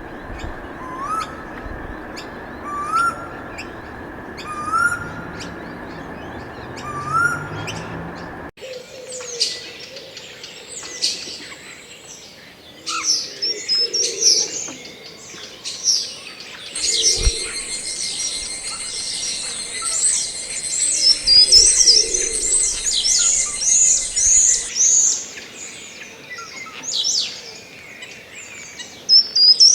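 Birds chirping. At first one bird repeats a short rising call about every two seconds over a faint steady tone. About eight seconds in the sound changes abruptly to several birds chirping together, with a steady high buzz under them in the middle stretch.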